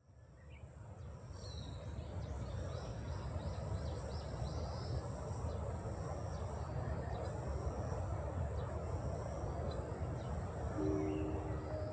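Outdoor ambience with a steady low rumble and birds chirping in short, high calls. A few sustained musical notes come in near the end.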